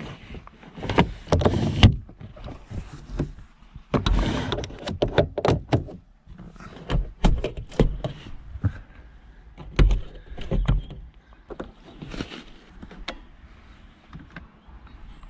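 Irregular rustling, clicks and knocks of things being handled and moved about inside a car.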